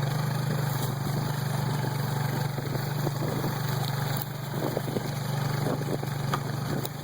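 Dirt bike engine running at a steady, unchanging pitch, with faint scattered crackles partway through.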